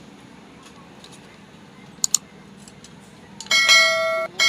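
Two faint clicks, then a loud bell-like metallic ringing that starts about three and a half seconds in, stops suddenly, and rings out again near the end.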